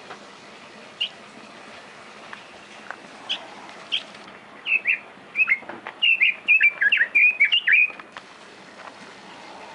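Songbird chirping: a few single chirps, then about three seconds of quick chirps, one after another, each dropping in pitch.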